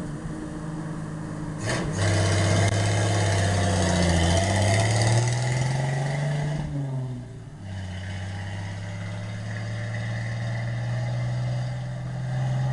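1968 Ford F100's 240 inline-six running through a straight-piped exhaust as the pickup drives off under load. The revs climb, drop briefly about seven seconds in as the engine comes off the gas for a shift, then pull up steadily again. The engine has freshly set points and still has what the owner suspects is a vacuum leak or a poor carburetor.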